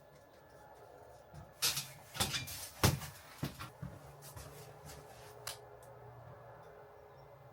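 A quick run of wooden knocks and clatter, as boards or tools are handled and set down, with the loudest knock a little under three seconds in. A single click follows about two and a half seconds later.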